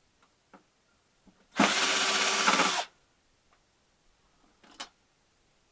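A handheld power drill runs once for a little over a second, about a second and a half in, taking apart a flat-screen TV. A few light clicks and knocks come from parts being handled around it.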